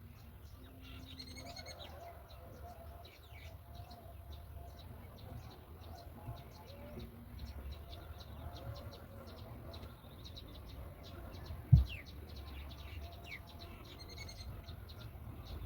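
Birds chirping, many short high chirps a second, with a few longer pitched calls near the start and near the end. There is a single loud thump about twelve seconds in, over a steady low rumble.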